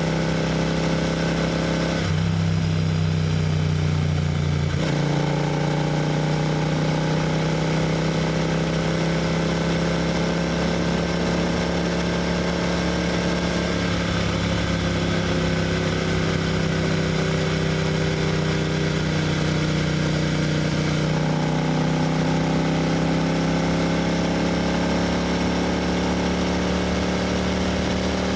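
Royal Enfield GT 650's 648 cc parallel-twin engine and exhaust at highway cruising speed, holding a steady note that creeps slowly upward, with a few brief changes in tone along the way.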